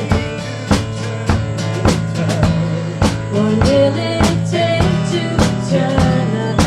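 Live band playing an instrumental passage: a drum kit keeps a steady beat, with a stroke about every 0.6 seconds, under sustained guitar chords and a wavering lead melody.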